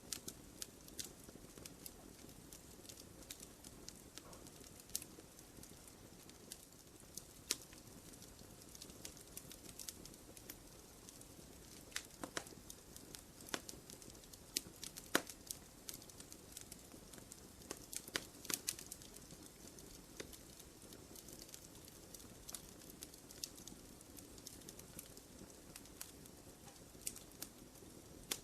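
Wood fire crackling in a fireplace: irregular sharp pops and snaps, a few louder ones, over a low steady hiss of burning.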